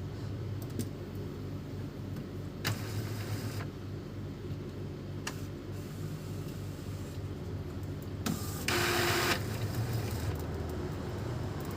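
Epson L310 inkjet printer powering up and running its start-up cycle: a few clicks and two short bursts of mechanical whirring, the longer and louder one about nine seconds in, over a steady low hum.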